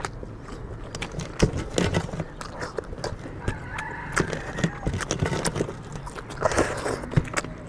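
Eating sounds: chewing and wet mouth smacks with irregular clicks, from people eating chicken curry and rice.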